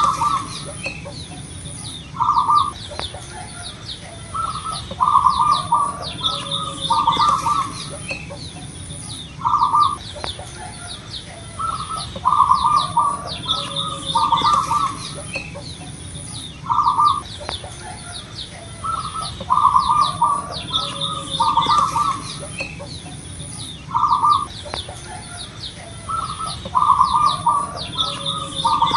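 Zebra dove (perkutut) singing its cooing song: a phrase of short, clipped coo notes that repeats about every seven seconds. Other small birds chirp faintly and higher in the background.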